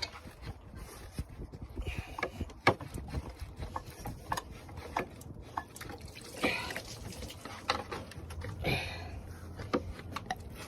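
Hand work on car parts under the hood: scattered light clicks and knocks, with a few brief scraping or rustling sounds.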